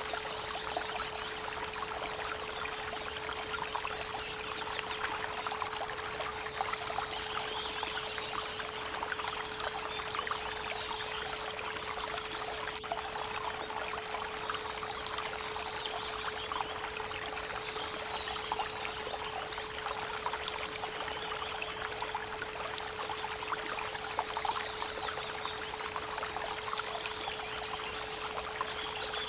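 Creek water running and trickling steadily, with birds singing short trills now and then high above it. Under it runs a steady 432 Hz pure tone.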